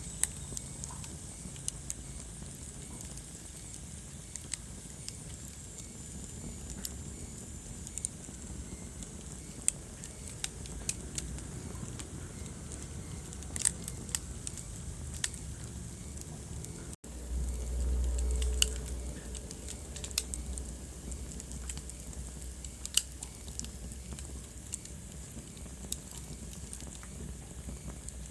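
Wood fire in a fireplace crackling, with irregular sharp pops and snaps over a steady low rumble of the flames. About two-thirds of the way through the sound cuts out for an instant, then the low rumble comes back louder for a couple of seconds.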